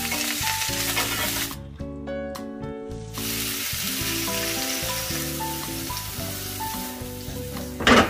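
Sliced onions and spinach sizzling in a hot cast-iron grill pan, with background music playing. The sizzle drops out for a moment about two seconds in and comes back, and near the end there is a sudden loud burst of noise.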